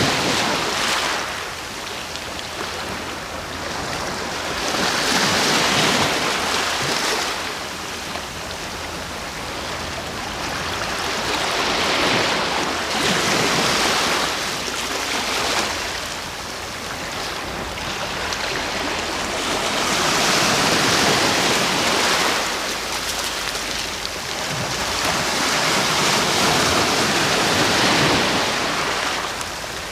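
Sea waves breaking and washing onto the shore, surging and falling back roughly every seven or eight seconds.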